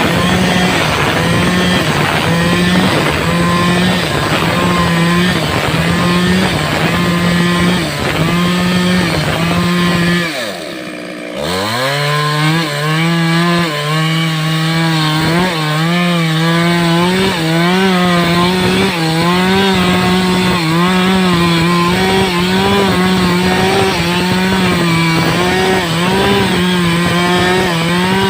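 Stihl chainsaw running flat out while cutting through a wood block, its engine note wavering with the load. About ten seconds in the note drops sharply and then climbs back up to full revs.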